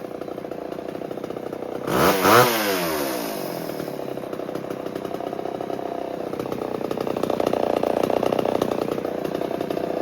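1978 Homelite XL12 chainsaw's two-stroke engine idling on its first run after years of sitting, with a quick blip of the throttle about two seconds in.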